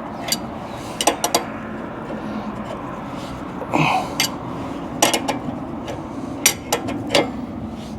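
Irregular sharp metallic clinks of hand tools on steel suspension hardware, a wrench working a fastener, over a steady background noise.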